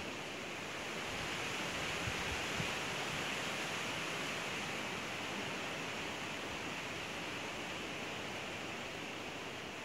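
Steady outdoor background hiss, with a couple of faint low bumps about two seconds in.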